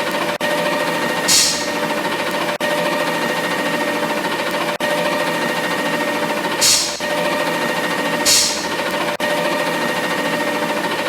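Garbage truck machinery running with a steady whine and a fast rattle, broken by four short hisses of air, about a second in, twice in the second half and at the very end.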